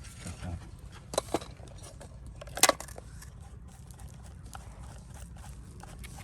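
A few sharp clicks and knocks of hard objects, two close together about a second in and the loudest about two and a half seconds in, over a steady low rumble.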